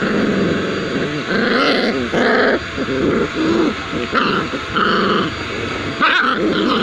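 Puppies growling and yipping while play-fighting, in an almost unbroken run of short, wavering growls.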